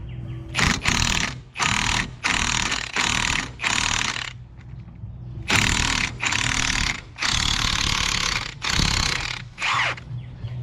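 Aerosol cleaner sprayed in a string of short hissing bursts, with a pause of about a second and a half midway; the last burst near the end is short and sputtering as the can runs nearly empty.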